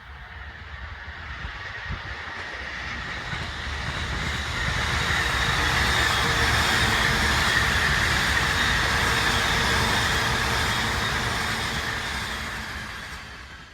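Electric commuter train passing on the line: its running noise builds over about five seconds, stays loud for several seconds with a low rumble and a hissing whir, then fades away near the end.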